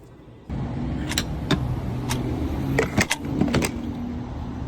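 Car running, heard from inside the cabin: a steady low rumble that starts suddenly about half a second in, with several sharp clicks and knocks over it.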